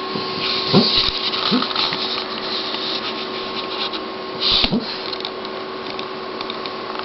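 A sleeping dog snoring, a few short snoring breaths over a steady mechanical hum.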